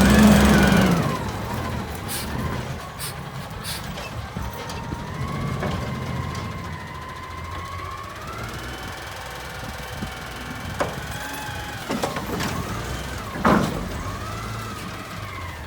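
Garbage truck working: its engine drops from a loud drone in the first second, then a high whine that slowly rises and wavers carries on, with a few sharp bangs near the end.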